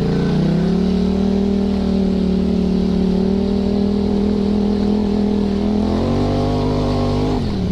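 Yamaha YZ450FX dirt bike's 450 cc single-cylinder four-stroke engine pulling up a hill. Its revs rise in the first second and hold steady, the note changes about six seconds in, and the revs fall near the end.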